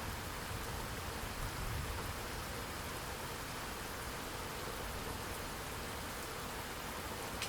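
Steady rain falling, an even hiss with no let-up. A low thunder rumble dies away in the first couple of seconds.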